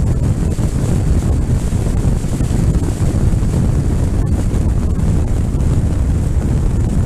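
Wind buffeting the microphone on a moving motorcycle, a heavy, steady low rumble with no let-up.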